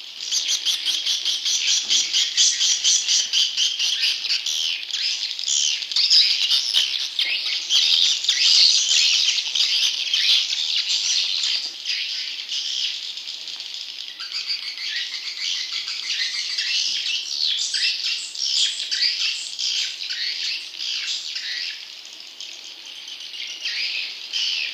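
Chorus of juvenile swiftlets: dense, rapid, unbroken chirping and twittering, a recorded swiftlet lure call of the kind played from swiftlet houses to attract wild birds to roost and nest.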